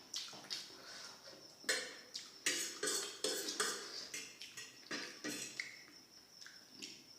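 Close-up eating sounds of chowmein and gobi manchurian: irregular wet chewing and smacking, with a flurry of sharp clicks in the middle.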